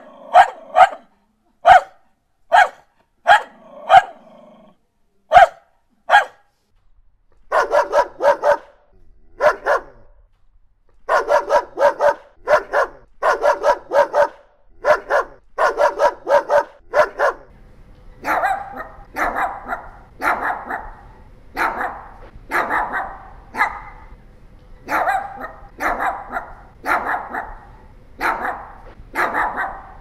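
Dogs barking in three short recordings one after another: a cocker spaniel giving single sharp barks about once a second, a boxer from about seven seconds in barking in quick runs of several barks, and a Pomeranian from about eighteen seconds in barking repeatedly over a faint low hum.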